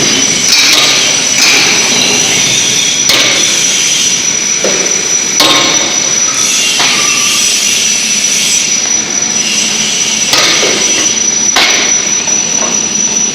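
Factory machinery running with a steady high-pitched whine, with loud metallic knocks and clanks landing every one to two seconds.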